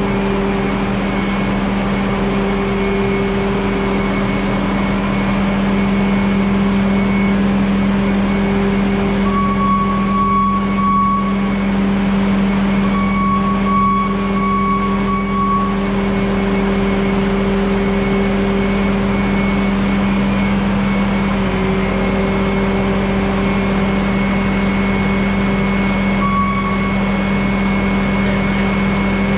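Bobcat S650 skid steer loader's diesel engine running steadily at constant speed. A higher whine comes in over it twice, for a second or two each time, around the middle.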